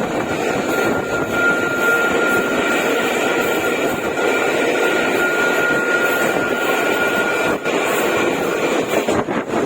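Electric trains running past: a steady loud rush and rumble of wheels and running gear with a thin steady whine over it, and the whine stops near the end.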